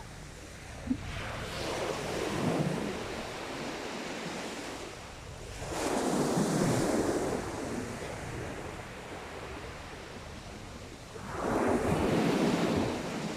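Sea waves breaking on the shore: three waves a few seconds apart, each one swelling up and then washing away.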